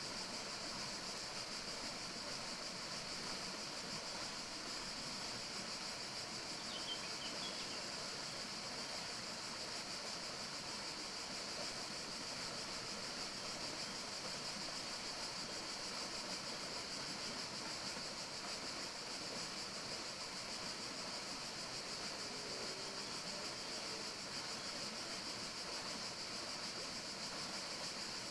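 Steady forest ambience: an even, unbroken hiss with a strong high band, with a faint short bird chirp about seven seconds in.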